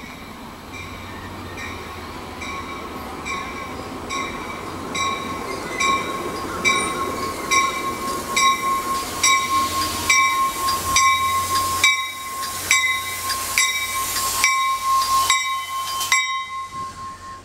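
An NJ Transit commuter train led by a cab car arrives, its bell ringing at a steady rhythm and growing louder as it approaches. A steady high squeal from wheels or brakes joins in as the train slows into the platform, over a rising rumble of the passing cars. The bell stops near the end.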